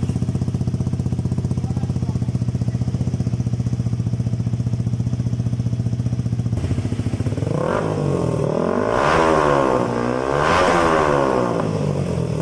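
Yamaha R15 v3's single-cylinder engine breathing through an aftermarket M4-style exhaust, idling steadily, then revved twice about eight and ten seconds in, the pitch rising and falling each time before settling back to idle.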